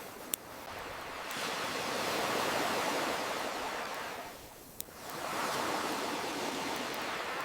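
Ocean waves washing in and drawing back in a slow swell, with two sharp pops from a crackling campfire, one near the start and one just before the middle.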